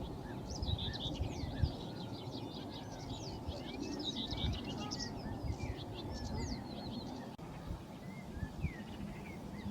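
Small birds chirping and twittering in a busy overlapping chorus, thinning out after about seven seconds, over a steady low rumble of wind noise.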